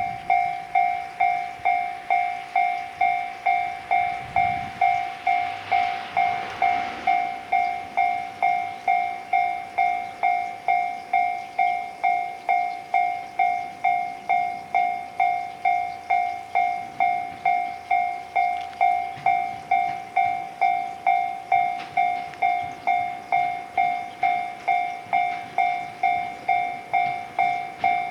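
Railway level-crossing warning bell ringing steadily, an even electronic ding repeated about twice a second, warning that a train is approaching.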